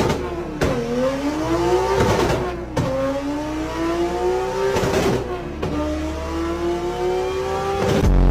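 Car engine revving hard under load on a dyno, its pitch climbing steadily with two sudden drops early on before a long, slow climb.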